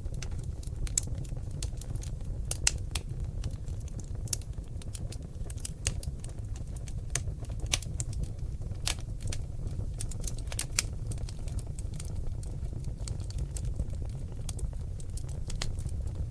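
Seasoned oak logs burning in a fireplace, crackling with irregular sharp pops over a steady low rumble of the fire.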